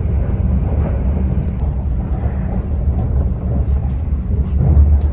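Class 745 FLIRT electric train running at speed: a loud, steady low rumble with running noise from the wheels and track.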